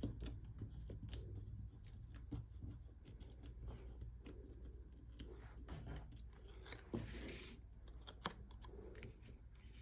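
Small scattered clicks and short rustles of hands working with cardstock and adhesive pieces at a craft table.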